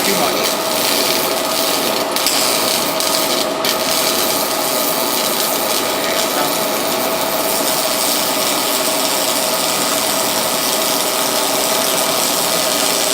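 MIG welding arc from a Lincoln PowerWave S350, a steady crackling hiss with a constant hum under it, and a few sharp crackles in the first few seconds.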